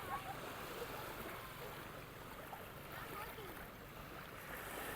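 Sea surf washing steadily on a beach, with faint distant voices.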